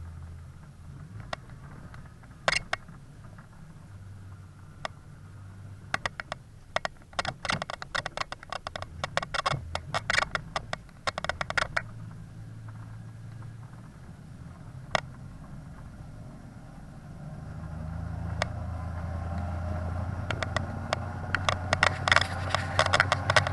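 A motor vehicle's engine running with a steady low hum that grows louder about seventeen seconds in, over bursts of rapid ticking and pattering, densest between about six and twelve seconds in and again near the end.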